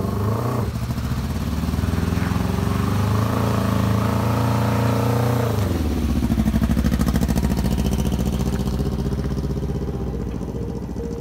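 Motorcycle engine swapped into a Smart car, revving up as the car pulls away with the pitch climbing for several seconds. About six seconds in the revs drop sharply, and the engine then runs on steadily at a lower pitch.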